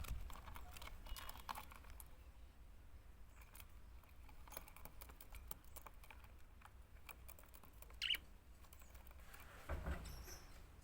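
Faint scattered clicks and scratches of budgerigars moving about, with one short high chirp about eight seconds in.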